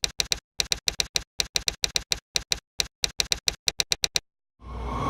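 Typewriter key clicks in quick bursts of two to four, with dead silence between the bursts. Near the end a swell of noise with a held tone comes in and grows louder.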